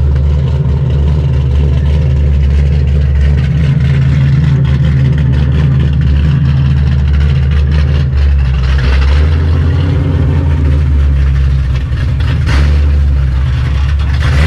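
Loud V8 engine of a Boss 302 Mustang running steadily close by at a deep, low rumble, with small rises and dips in engine speed.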